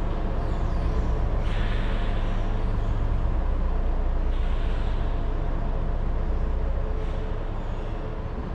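Old Scania BR111 bus's diesel engine running steadily, with two short hisses, about a second and a half and four seconds in.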